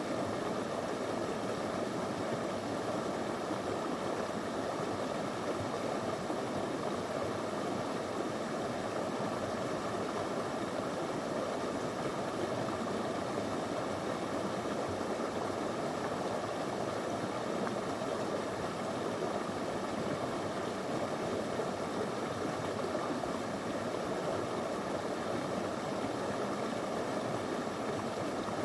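Small river flowing over stones: a steady, unbroken rush of water.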